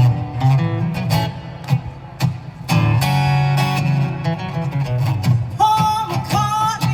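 Acoustic guitar playing, with a singing voice coming in about five and a half seconds in.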